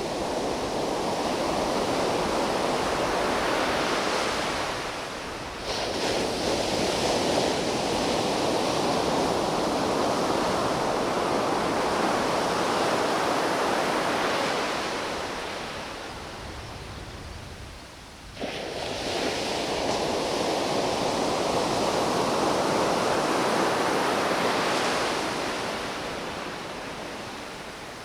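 Ocean surf breaking and washing on a beach, a loud continuous rush that swells and eases. It drops away and comes back abruptly about five and a half seconds in and again near eighteen seconds.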